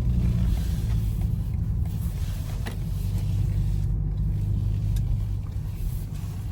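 BMW i4 M50 electric car driving, a steady low rumble of tyre and road noise with a low drivetrain hum.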